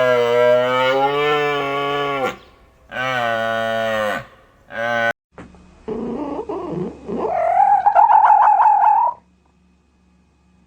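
A cow mooing: two long, drawn-out moos and a short third one. Then, after a break, a cat gives one wavering, drawn-out yowl that stops about nine seconds in.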